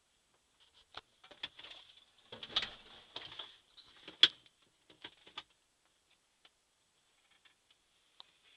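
Scattered clicks and short rustles of handling, with one sharp click about four seconds in.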